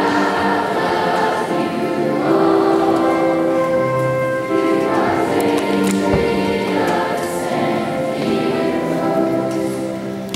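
A children's school choir singing together in long held notes.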